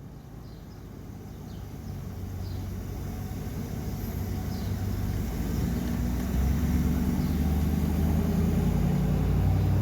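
Low, noisy rumble with no clear pitch that swells steadily louder, like an engine or traffic drone.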